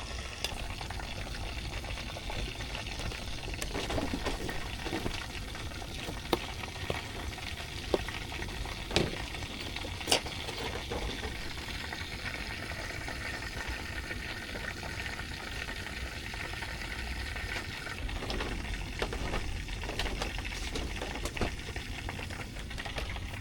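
Steady watery hiss and splashing, broken by a few sharp knocks and clicks.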